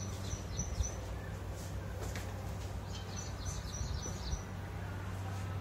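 Small birds chirping in quick runs of short, high chirps, once near the start and again in the second half, over a steady low hum.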